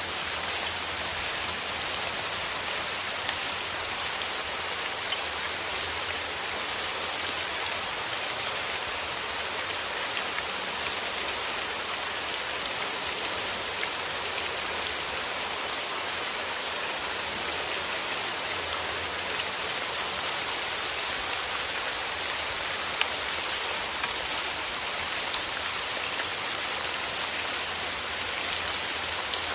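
Steady rain falling on surfaces, an even hiss with scattered individual drops ticking through it.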